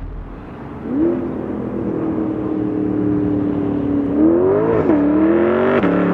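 Chevrolet Corvette C8 Stingray's naturally aspirated 6.2-litre LT2 V8, fitted with an aftermarket exhaust, accelerating toward and up to the listener. The engine note steps up about a second in and holds, then climbs and drops back twice near the end.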